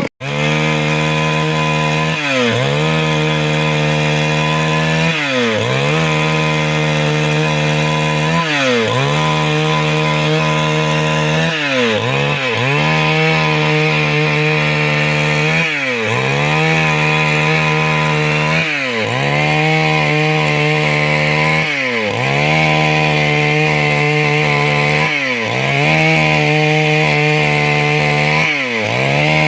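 Stihl MS 382 two-stroke chainsaw running at high speed while sawing wood. Its pitch dips briefly and recovers about every three seconds.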